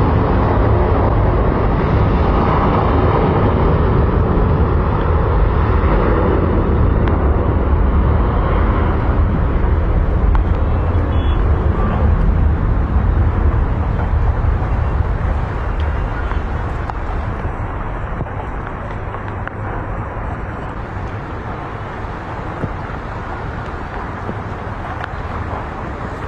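Aircraft engine noise: a loud, steady rumble that eases off and settles lower about two-thirds of the way through.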